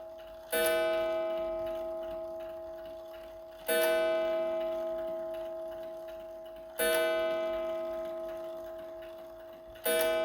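Seth Thomas beehive mantel clock striking the hour, four slow strokes about three seconds apart within this stretch. Each stroke rings out and fades slowly until the next, as part of a longer count.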